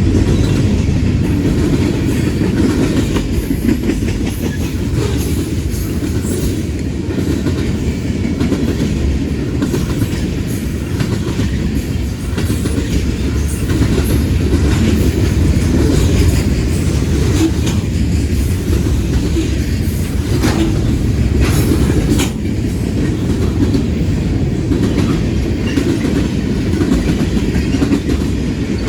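Freight train cars rolling past, a steady heavy rumble with the clickety-clack of steel wheels over rail joints and a few sharper clanks.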